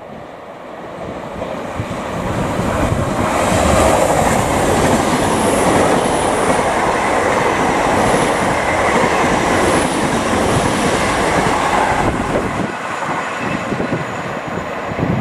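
A GWR Hitachi Intercity Express Train passing along the track: a rising then steady loud rush and rumble of wheels on the rails, with a few brief high-pitched wheel squeals in the middle. The sound builds over the first few seconds and dies down a little near the end.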